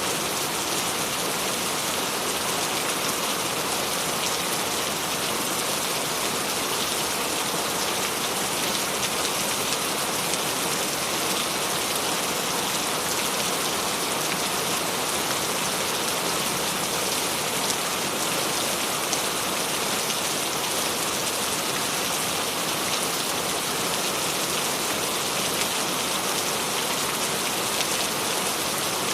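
Steady rain falling and pattering on a surface, a dense even hiss with fine drop impacts throughout.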